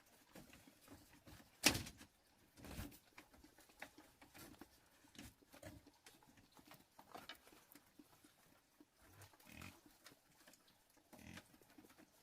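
Faint, irregular clicks and short knocks, with the sharpest knock about two seconds in.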